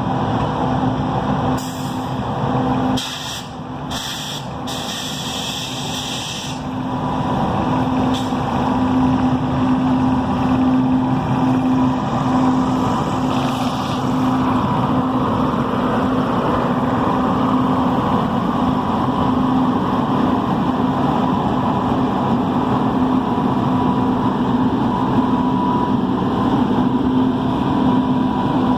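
Moving train noise: a steady rumble of wheels on the rails with a steady electric hum, as a WAP-7 electric locomotive runs on a parallel track. A few short hisses come in the first few seconds, and the noise grows louder after about seven seconds, then holds steady.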